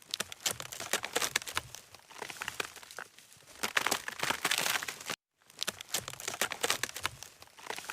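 Crinkling, crackling handling of dry, light material, made of many small irregular clicks, broken by a sudden cut about five seconds in.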